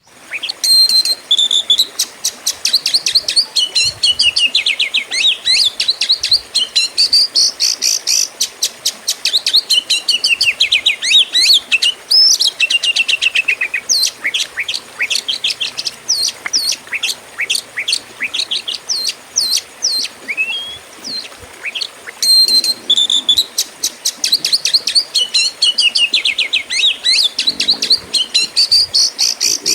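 Oriental magpie-robin (kacer) singing a loud, fast, continuous song of rapid chirps, trills and sweeping whistled notes, with a short lull about two-thirds of the way through.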